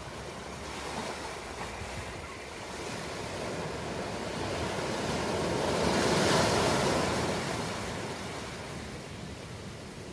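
Ocean waves breaking and washing on a shore. One wave swells to its loudest about six seconds in, then recedes.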